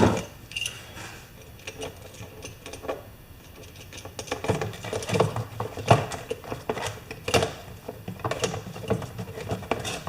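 Irregular clicks and light knocks of hand tools and small metal parts being handled during a rivet repair.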